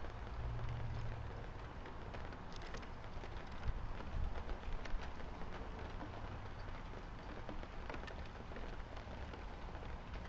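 Rain pattering steadily: an even hiss dotted with many small drop ticks, with a low rumble underneath.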